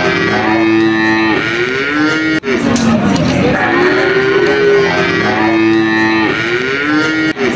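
Cattle mooing: long drawn-out lowing calls, some rising and falling in pitch and some held level, in a sequence that breaks off abruptly about two and a half seconds in and then repeats almost identically.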